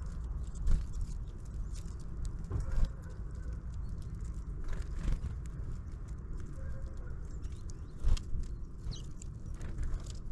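Birds at a feeder: several sharp taps and knocks, the loudest about a second in, near 3 s, near 5 s and near 8 s, with a few faint short bird calls over a steady low rumble.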